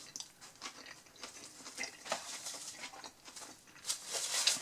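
A person chewing a mouthful of burger close to the microphone: irregular soft clicks and smacks. A louder rustling comes near the end.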